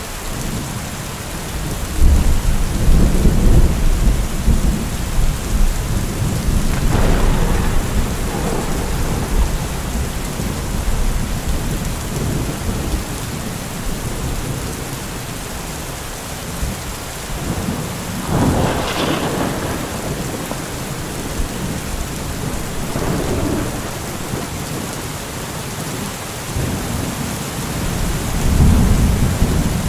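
Heavy rain falling steadily with thunder rumbling through it: a deep roll of thunder about two seconds in, a sharper crack a little past halfway, and another low rumble near the end.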